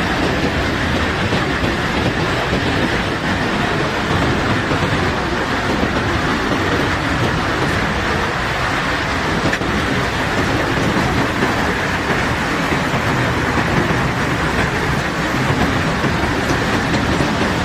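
Steady, unbroken rumbling clatter of cobblestones being unloaded from a barge.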